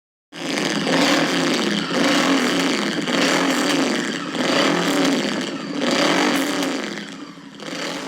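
Honda VTR 1000 F's 90-degree V-twin running through a GPR low-mount aftermarket exhaust, its note swelling and easing about once a second, then cutting off at the end.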